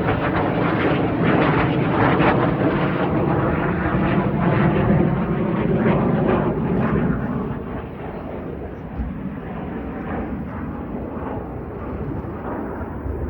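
F-15 Eagle fighter jet passing low on its landing approach, a heavy jet-engine rumble that is loud at first and fades about seven seconds in as the jet moves away.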